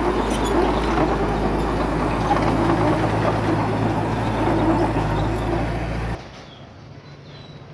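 Heavy diesel earthmoving machinery engine running steadily with a noisy mechanical rattle. About six seconds in, the sound cuts abruptly to a much quieter, steady engine hum.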